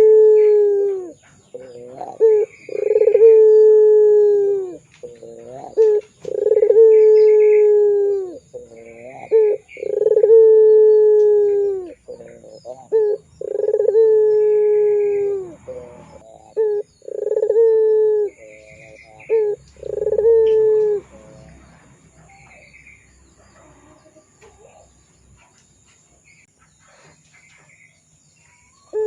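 Puter pelung dove cooing: about seven long coos, each falling in pitch and led by short notes, repeated roughly every three and a half seconds. Then a pause of several seconds, and the cooing starts again near the end.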